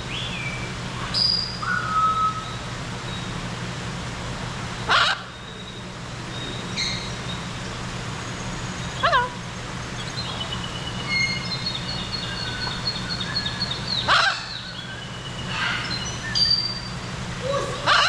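Birds calling: short whistles and chirps, a sharp squawk about every four seconds, and a rapid trill a little past the middle, over a steady low hum.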